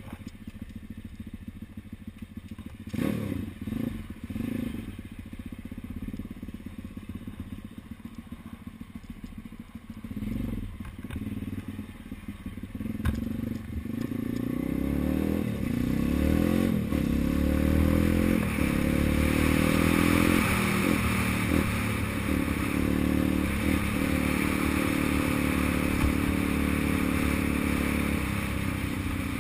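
Engine of a 140cc four-stroke single-cylinder pit bike, running at low, uneven revs for the first half, then accelerating hard about halfway through with its pitch climbing in repeated rises, and held at high revs until near the end, when it eases off.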